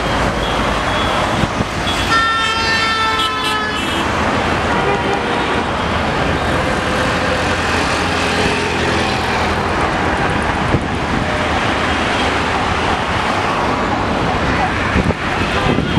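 Loud, steady rumble of passing vehicle noise, with a horn sounding for about two seconds near the start.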